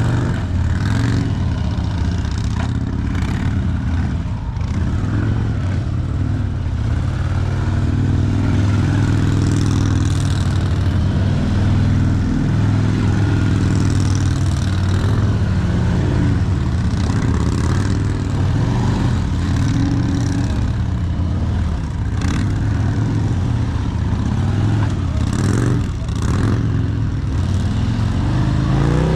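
Heavy motorcycle engine running at low speed, its pitch rising and falling with small throttle changes, with a few brief clicks.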